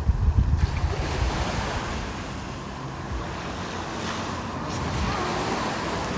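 Surf washing in steadily, with wind buffeting the microphone in low rumbles, strongest in the first half-second.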